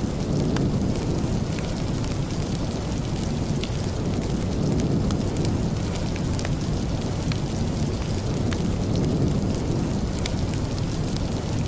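Steady rain with a deep, even rush, and scattered sharp crackles and pops from a wood fire in a fireplace.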